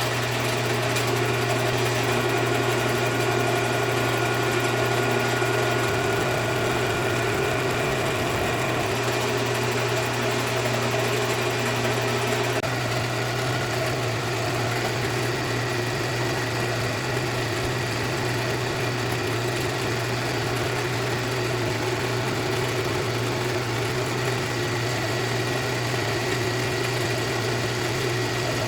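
Cylinder head resurfacing machine running steadily, taking a light 2-thousandths cut across a Duramax cylinder head: a loud, even motor hum with a thin whine over it, its high tones shifting slightly about 6 and 12 seconds in.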